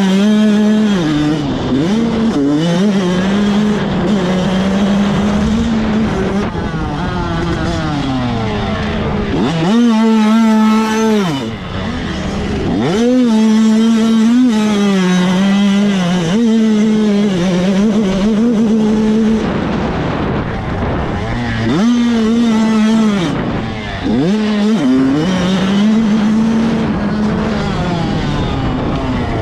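A Kawasaki KX85 two-stroke motocross bike's engine revs high under hard throttle. Its pitch holds and wavers, then drops and climbs back several times as the rider shuts off and opens up again, most clearly about 10, 20 and 24 seconds in.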